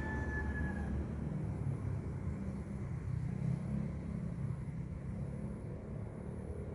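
Low, steady rumble of road traffic or a running vehicle engine. A faint, slightly falling whistled note fades out within the first second.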